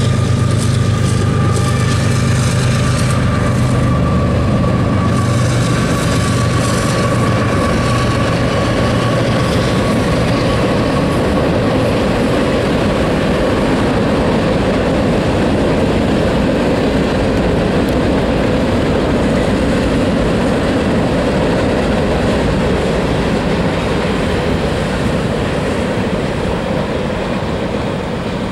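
CSX diesel freight locomotive passing with a low engine drone, which gives way after about ten seconds to the steady rumble of freight cars (covered hoppers and tank cars) rolling by on the rails, easing off slightly near the end.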